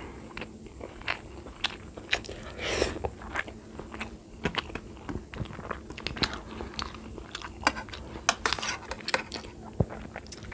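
Close-up chewing of a person eating rice and curry by hand, heard as many small irregular clicks and smacks, with a brief louder mouth noise about three seconds in.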